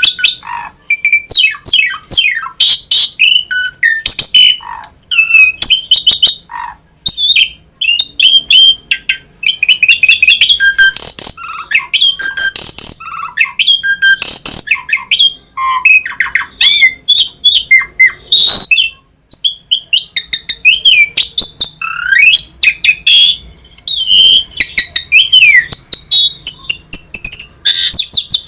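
Asian pied starling (jalak suren) singing vigorously, a fast, varied medley of whistles, rising and falling glides, harsh squawks and clicks that runs almost without a break.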